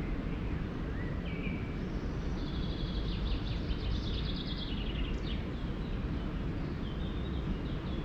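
Songbirds singing over a steady low background rumble: a fast trilled phrase of repeated high notes from about two and a half to five seconds in, with short chirps near the start and near the end.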